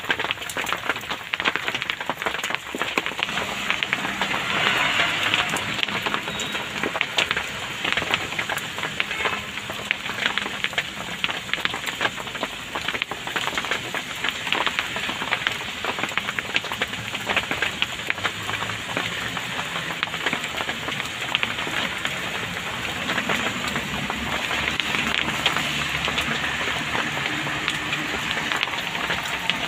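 Heavy rain falling on a vehicle's roof and windshield, heard from inside the cabin as a dense, steady patter of drops.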